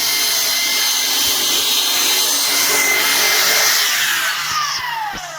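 A power tool running with a loud, steady whirring hiss, then winding down about four seconds in, its pitch falling as the level drops.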